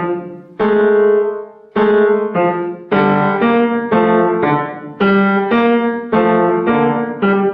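Piano playing a phrase in D minor: a string of chords struck about twice a second, each ringing briefly before the next.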